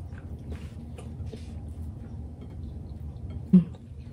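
Eating by hand: soft clicks and smacks of chewing and fingers working rice and curry on a plate, with a short, louder low sound about three and a half seconds in.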